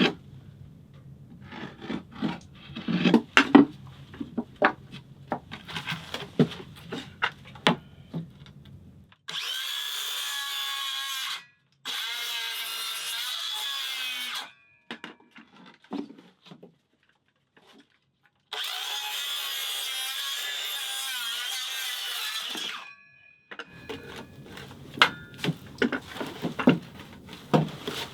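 Wood knocking and clattering from handling timber, then a power tool running in three steady bursts of a few seconds each, starting and stopping sharply, with more knocks near the end.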